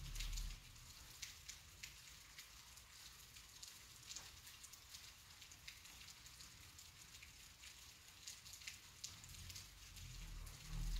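Steady light rain falling, with many separate drops ticking close by. A low rumble swells briefly at the very start and again near the end.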